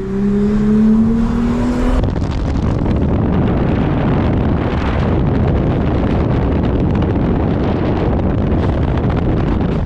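Toyota Mark X V6 with a modified exhaust, accelerating, its engine note rising steadily for about two seconds. It then gives way to a steady rush of wind and road noise with buffeting.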